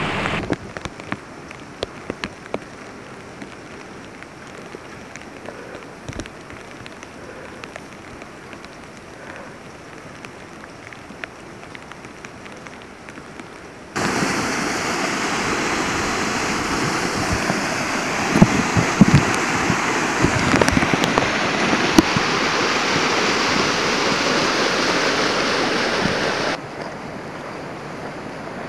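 Steady rain with scattered drops ticking close by. About halfway through it cuts to a much louder, even rush of water lasting about twelve seconds, then drops back to a softer rain sound near the end.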